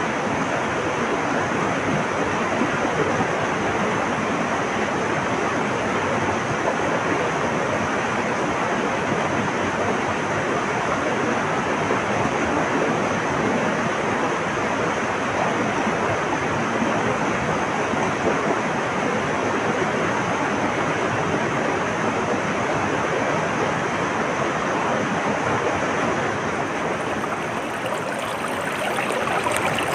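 Flowing water rushing steadily, with no breaks. Near the end the sound turns brighter and more splashy.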